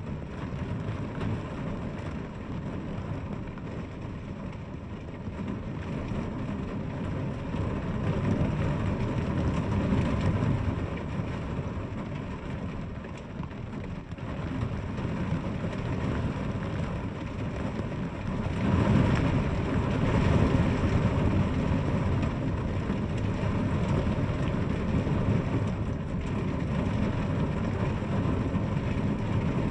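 Rain falling steadily, swelling louder with a deeper rumble twice, about a third of the way in and again past halfway.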